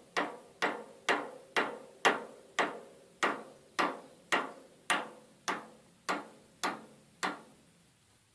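Flat-faced hammer tapping a new U-joint bearing cap down into the axle yoke. It strikes steadily about twice a second, each blow with a short metallic ring, and the tapping stops near the end.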